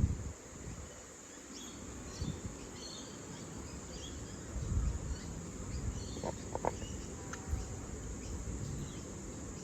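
Steady high-pitched insect drone, with scattered faint short chirps and a few low gusts of wind on the microphone.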